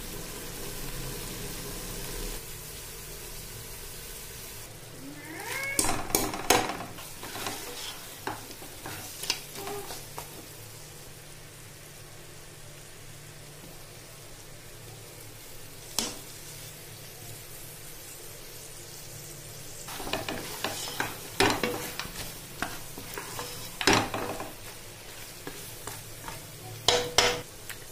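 Mutton and bitter gourd frying in ghee, sizzling steadily as it is browned (bhuna) once its cooking liquid has dried off. A wooden spoon stirs and scrapes the pot now and then, with short clusters of scraping a few seconds in and again over the last several seconds.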